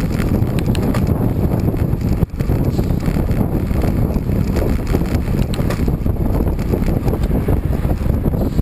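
Wind rushing over the microphone as a cyclist rides along at speed: a loud, steady low rumble that drops out briefly a little over two seconds in.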